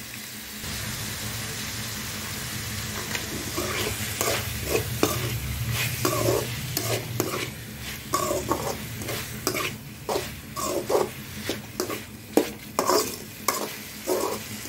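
Chicken, shallots and dried red chillies sizzling in oil in a metal kadai while being sautéed. About four seconds in, a metal spatula starts scraping and stirring the pan in quick, repeated strokes.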